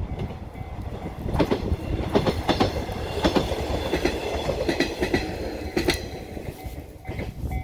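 KiHa 110 series diesel railcar passing close by, its wheels clicking over rail joints in a run of regular beats that die away near the end.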